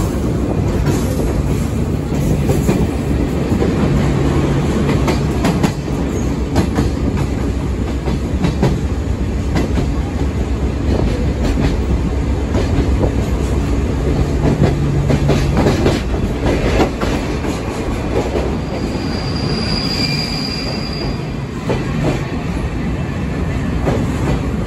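Sagano Romantic Train passenger car running on the line, heard from aboard the open-air car: a steady rumble of wheels on rail with irregular clicks over the rail joints. A brief high squeal comes about twenty seconds in.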